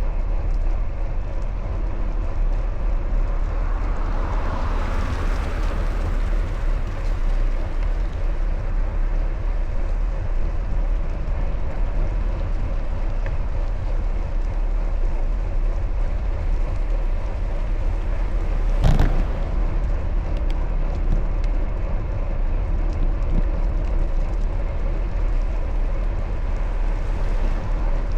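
Steady low rumble of wind on the microphone while riding a bicycle, with a vehicle swelling past about five seconds in and a single sharp knock about two-thirds of the way through.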